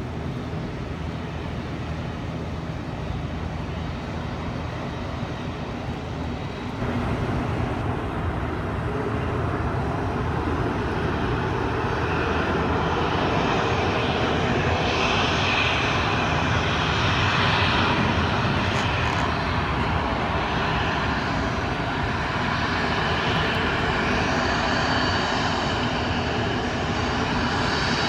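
Jet airliner engines running, a steady roar that jumps in level suddenly about seven seconds in and swells to its loudest about two-thirds of the way through, with a faint high whine in the later part. Wind is buffeting the microphone.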